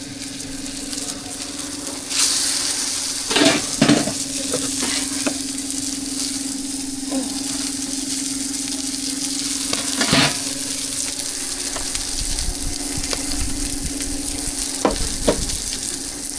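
Food sizzling on a hot griddle, the sizzle growing louder about two seconds in, with a few short scrapes and knocks of a metal spatula and a steady low hum underneath.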